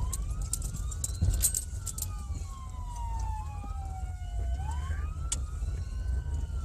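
Police siren on a slow wail, its pitch rising quickly and then falling slowly, about one cycle every four and a half seconds, over a steady low rumble, with scattered short clicks.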